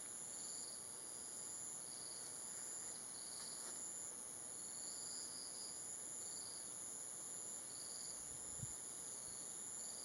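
Forest insects calling: a steady, high-pitched trill with a second insect giving short repeated pulses about once a second.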